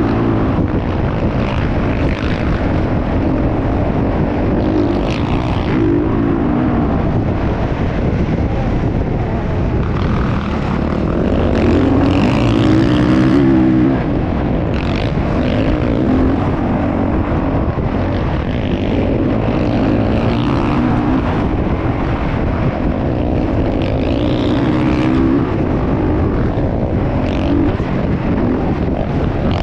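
Motocross dirt bike engines running and revving, the pitch rising and falling repeatedly with the throttle.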